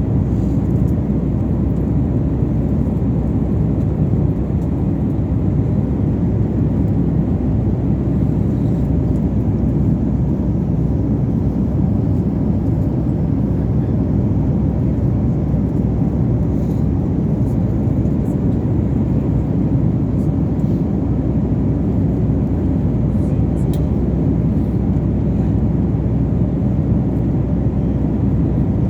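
Steady low rumble of airliner cabin noise in cruise flight, the engines and airflow heard from inside the cabin, with no change throughout.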